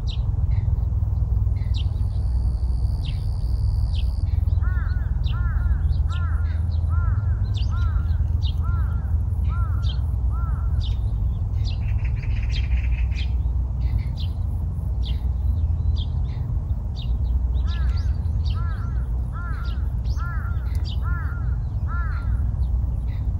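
Small birds chirping throughout, and a larger bird calling two runs of repeated notes, about two a second, over a steady low rumble.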